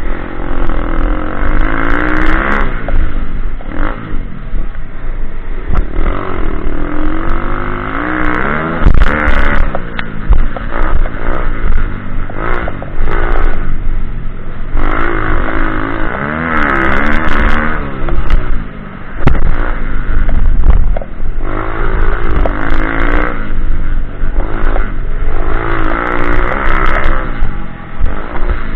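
Pit bike engine revving up and down again and again as it is ridden hard, the pitch climbing and dropping every few seconds. Sharp knocks and clatter come through at times.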